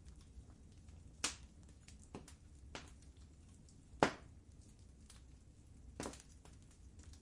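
Fire in a fireplace crackling over a steady low rumble, with many faint ticks and five sharper pops, the loudest about four seconds in.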